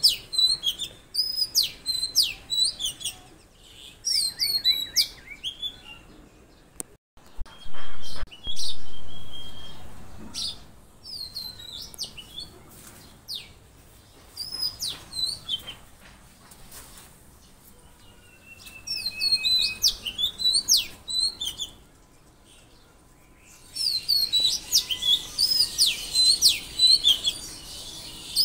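Small songbirds chirping and calling repeatedly, short high notes and quick falling whistles in clusters, busiest near the start and again near the end. About eight seconds in, two dull thumps stand out as the loudest sounds.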